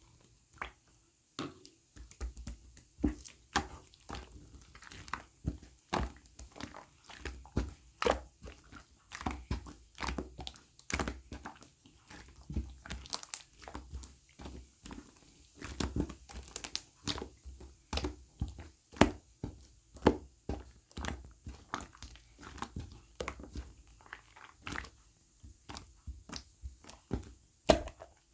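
Close-up crunching and crinkling: a dense run of short, irregular crackles and clicks, several a second.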